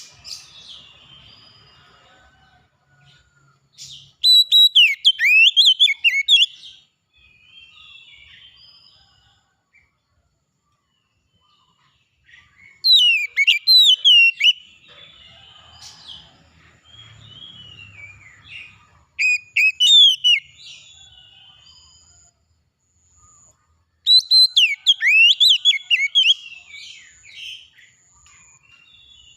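A songbird singing loud bursts of rapid, varied whistled phrases, each lasting two to three seconds, with quieter twittering in the gaps. In the second half another bird repeats a thin, high single note about once a second.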